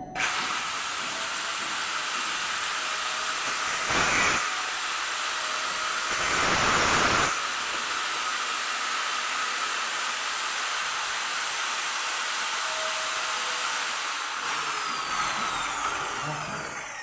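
A handheld power tool starts suddenly and runs steadily with a hissing whine. It grows louder briefly about four seconds in and again around six to seven seconds in, then winds down in pitch and fades near the end.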